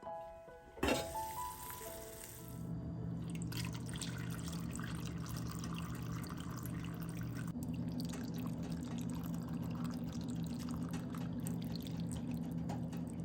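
Water running steadily from a kitchen tap into a sink, with a low steady hum under it. Before it starts, piano music ends with a sharp click about a second in.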